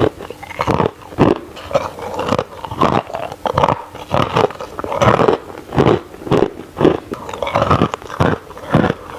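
Crushed ice being bitten and chewed close to the microphone: a steady run of loud crunches, about two a second.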